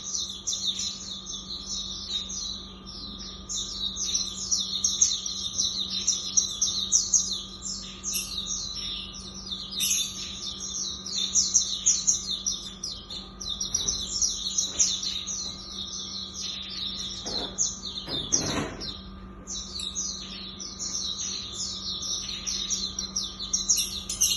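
A pleci (Zosterops auriventer white-eye) singing a fast, unbroken twittering song of rapid high chirps, the rapid-fire 'tembakan' delivery that songbird keepers prize. A faint steady electrical hum runs underneath.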